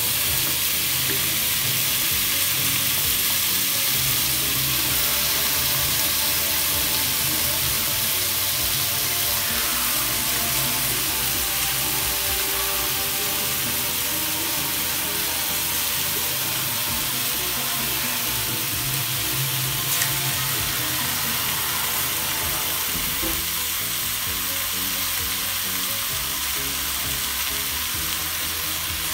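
Salmon heads with onions and tomatoes sizzling steadily in a cooking pot, with one sharp click about two-thirds of the way through.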